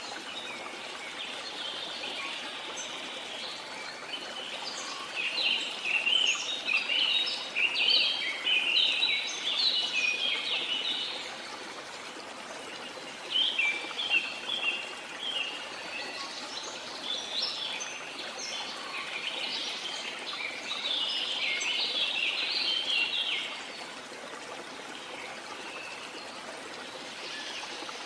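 Birds chirping rapidly in spells of many short, high notes (one from about five to eleven seconds in, a short one around thirteen seconds, another from about sixteen to twenty-three seconds) over the steady rush of a running stream.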